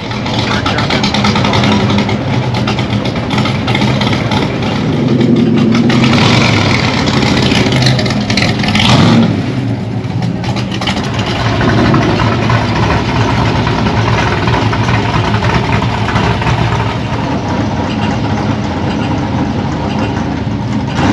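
Cars cruising past on a street, several engines running and revving. The loudest moment comes about nine seconds in, as an old hot rod coupe passes close.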